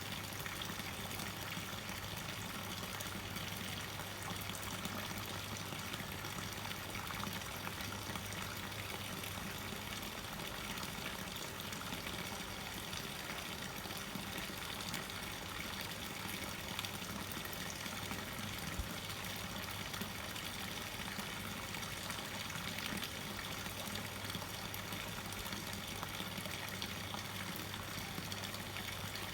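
Water running steadily without a break, with a faint steady low hum underneath.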